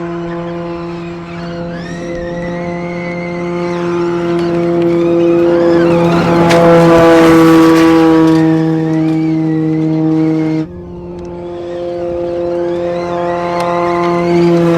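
Audi RS Q e-tron Dakar rally car running: a steady, unchanging drone from its range-extender petrol engine under a higher whine that rises and falls with speed. The sound swells to its loudest with added tyre and gravel noise in the middle, cuts off abruptly about two-thirds of the way through, then builds again.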